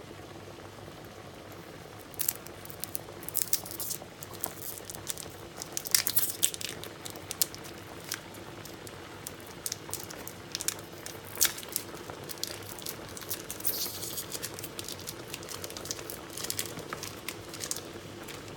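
Stock cube wrappers crinkling in irregular bursts as two cubes are unwrapped, over the steady low bubbling of a pot of okra soup on the stove.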